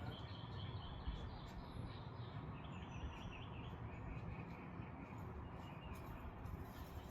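Faint outdoor background noise with birds chirping in short rapid series, plus a few light clicks.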